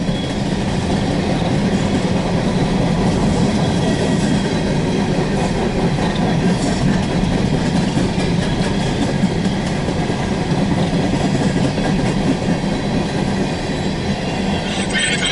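Empty coal hopper cars of a CSX freight train rolling past, with a steady rumble and the clickety-clack of wheels on the rails.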